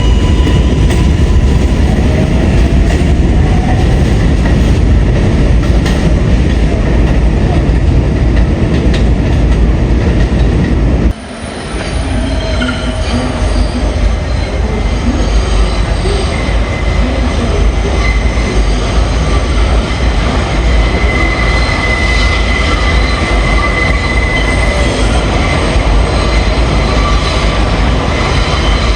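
R142A subway train running on the rails with loud, steady rumble and wheel noise. About eleven seconds in the sound drops abruptly and picks up again, and later the wheels squeal in high, steady tones.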